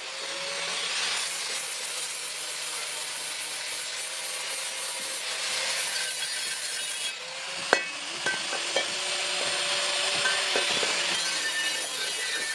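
Rasping, scraping noise of tool work, swelling and easing in slow surges a few seconds long, with one sharp click about eight seconds in.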